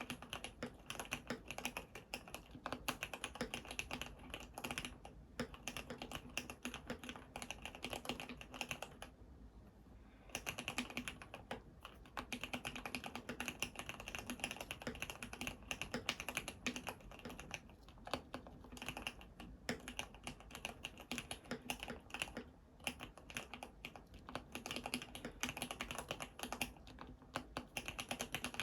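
Typing on an ABKO AR87 full-aluminium mechanical keyboard with lubed Cherry MX Red linear switches and PBT Cherry-profile keycaps: fast, steady keystrokes, with a brief pause about nine seconds in.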